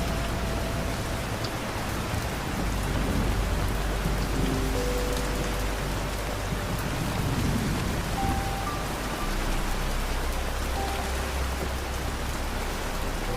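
Steady rain falling, an even hiss, with a deep low rumble underneath.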